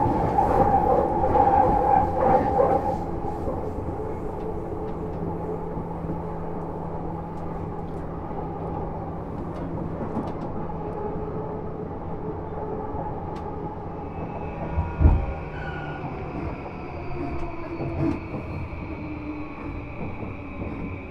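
Interior running sound of a JR East E235 series motor car, with its Mitsubishi SiC-MOSFET VVVF traction system: steady wheel and rail rumble. Strong whining tones in the first few seconds fade out, after which the noise settles lower. There is a heavy thump about fifteen seconds in, and in the last seconds a faint high tone slowly falls in pitch.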